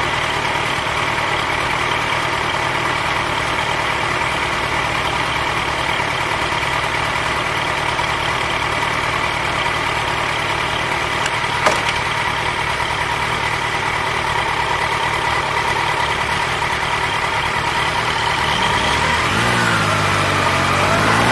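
Motorcycle engine idling steadily, with a single short click about twelve seconds in; near the end the engine pitch rises and wavers as it revs up to pull away.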